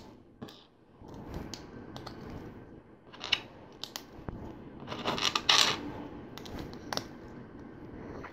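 Hard plastic LEGO pieces clicking and clattering as plates are pressed onto a build, with scattered sharp clicks and a louder spell of clattering a little past halfway.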